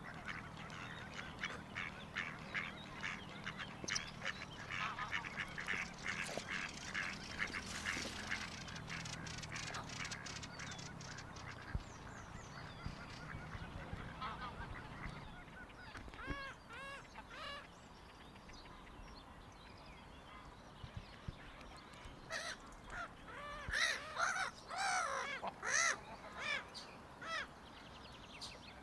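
Geese honking: a dense run of rapid calls for about the first ten seconds, a few calls around the middle, then the loudest burst of honks in the last third.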